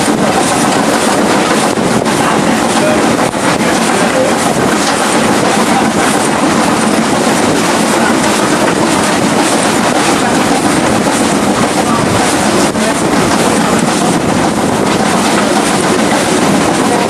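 A passenger train hauled by a BR Standard Class 5 steam locomotive, heard on board while running: a loud, steady rumble and rattle of the coach and wheels on the track, with faint knocks now and then.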